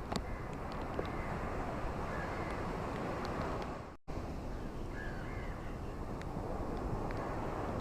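Ocean waves washing onto a beach as a steady rushing noise, which drops out for a split second about four seconds in. Faint bird calls come over the surf twice.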